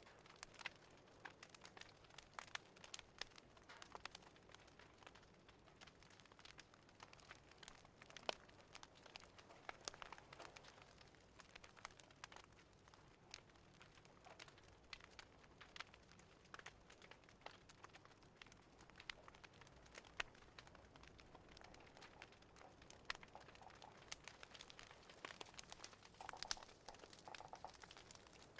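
Faint crackling of a wood fire in a fireplace: irregular small pops and snaps over a low steady hiss, with a denser run of crackles near the end.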